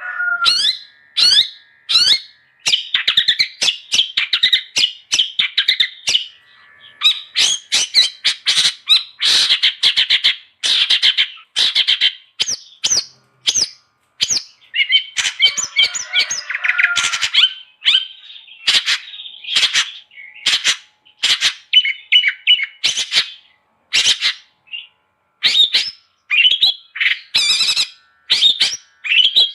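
Long-tailed shrike (cendet) singing in full voice: a fast, varied run of harsh chattering notes and sharp chirps, broken by short pauses.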